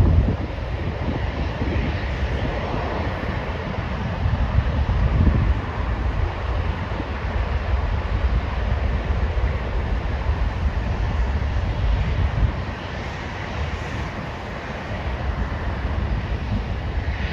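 Jet airliner engine noise at an airport, a steady rushing sound that swells towards the end, with wind buffeting the microphone in low gusts.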